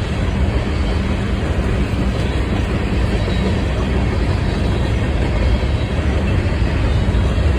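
Union Pacific train rolling past, a steady loud rumble with the clatter of its wheels over the rail joints.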